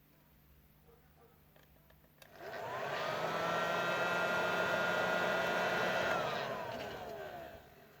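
Hot air soldering gun's fan spinning up with a rising whine and a rush of air, running steady for about four seconds, then winding down with a falling whine near the end.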